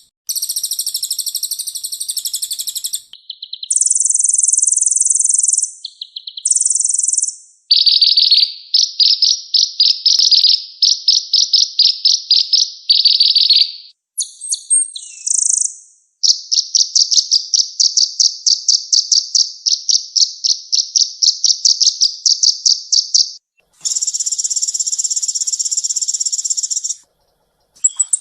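Kolibri ninja sunbird song: a series of loud, high-pitched phrases of rapid trills, short chattering bursts and one long run of fast repeated notes, the sections changing abruptly from one recording to the next.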